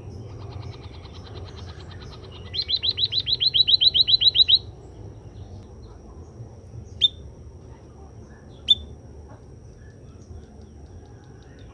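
Emprit kaji (white-headed munia) calling: a rapid run of high chirps, faint at first, then loud for about two seconds at roughly seven notes a second, followed later by two single sharp chirps.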